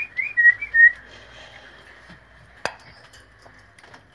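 A small cage bird singing a quick run of short whistled notes that rise and fall, stopping about a second in. A single sharp click follows near the middle.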